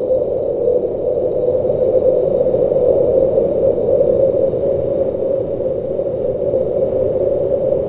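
Blizzard wind blowing steadily: an even rushing noise centred in a low-middle band, with no gusts, breaks or thunder.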